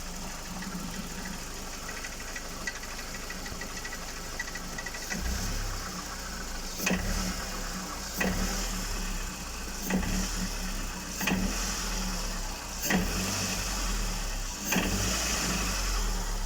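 Mitsubishi Lancer 9's four-cylinder engine idling with a fast light ticking. From about five seconds in, six short rises in engine sound each come with a sharp knock. This is the knock that the owner hears around cylinder 4 even though the engine runs smoothly.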